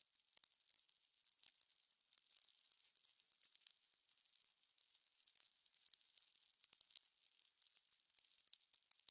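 Fire crackling: irregular small pops and snaps over a soft, steady hiss.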